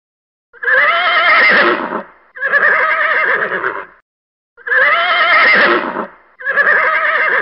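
Pony whinnying: two long, quavering whinnies, each in two parts with a brief break, the second coming about half a second after the first ends.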